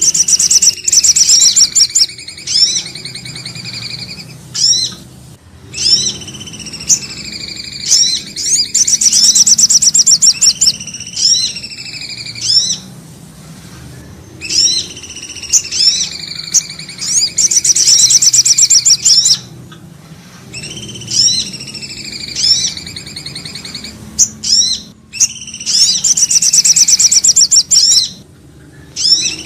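Bird lure-call recording of small songbirds of the kinds sold as sirtu/cipoh (common iora) and sogo ontong lures. Phrases of fast, high trills and whistled notes repeat in the same pattern about every eight seconds, over a faint low hum.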